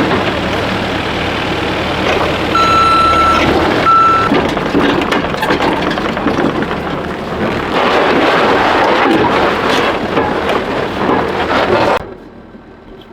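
Tracked machine's engine running hard as it is driven up ramps onto a hook-lift truck, with its backup alarm beeping twice about three seconds in. The machine noise drops off sharply near the end, leaving a quieter engine running.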